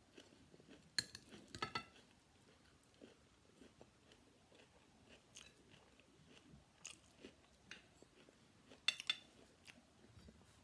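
Quiet chewing and mouth sounds of a person eating fried rice, with a few sharp clinks of a metal spoon against a ceramic plate about a second in, just after, and again near the end.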